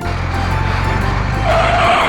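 Cartoon vehicle sound effect: a motor running with a skidding hiss that swells in the second half, then cuts off suddenly.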